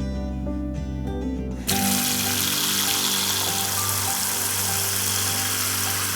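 Water running from a tap in a steady stream over background music. It starts suddenly about two seconds in and stops near the end.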